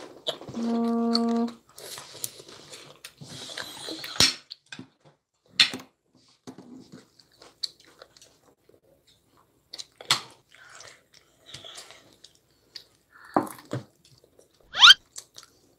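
A young child eating noodles: soft chewing with scattered small clicks of chopsticks against a plastic plate. A short, steady hum about half a second in, and a brief rising squeak near the end, which is the loudest sound.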